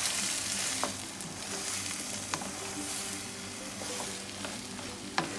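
Chicken, peppers and carrot sizzling in hot oil in a pan as they are stirred, with a few sharp clicks of the stirring utensil against the pan, the loudest near the end.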